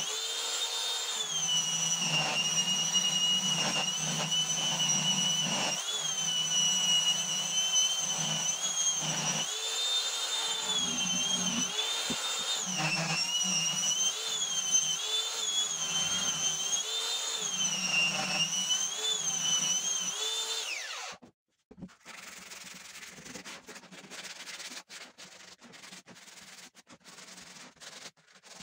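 An electric power tool sanding wood, its high motor whine dipping in pitch again and again as it is pressed into the work and recovering as it eases off. About two thirds of the way through it spins down and stops. After that comes quieter, uneven rubbing and scratching on the wood.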